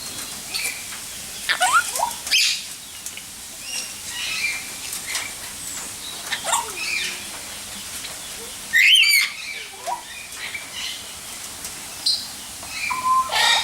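Several aviary birds calling: scattered chirps and short whistled glides, with one loud harsh call about nine seconds in.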